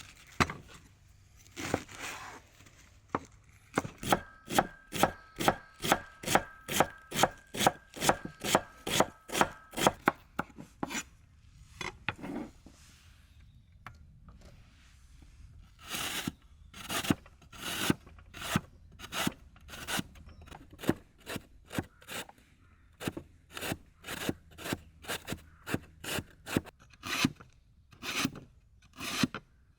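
Knife chopping food on a cutting board in quick, even strokes, about three a second, in two long runs with a short pause between.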